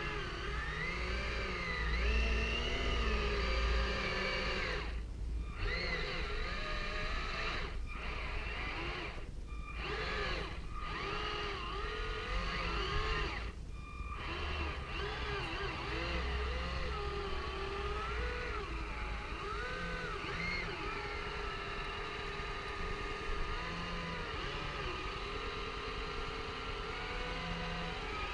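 Twin electric drive motors of a Hobby Engine Southampton RC tug running, their whine rising and falling in pitch as the throttle is worked. The sound briefly thins out several times in the first half.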